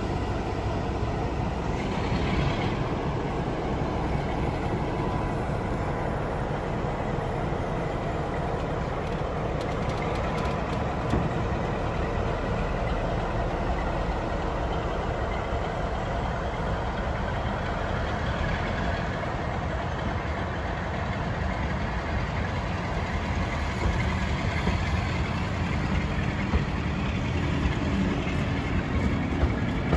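Heritage railway coaches rolling slowly past, a steady low rumble of wheels on the track, with a few sharper clacks near the end.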